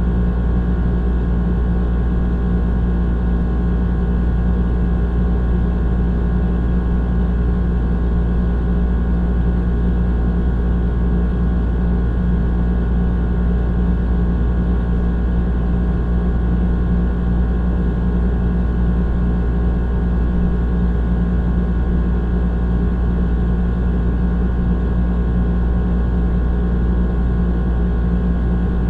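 Old air conditioner running steadily: a constant low drone with a steady hum tone over it, unchanging throughout.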